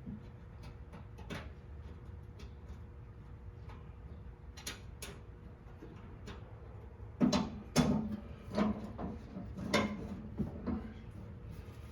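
Scattered clicks and light knocks of a metal headlight bracket and hand tools being handled and fitted, sparse at first and busier and louder over the last few seconds.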